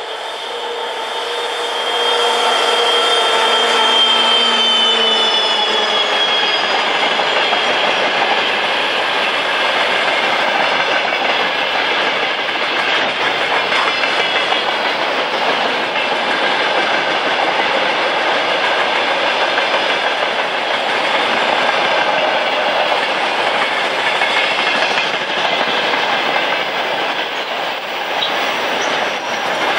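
Train hauled by a 2TE116 diesel locomotive passing close by, its wheels clattering over the rail joints in a steady loud rolling noise. A pitched drone fades away over the first few seconds.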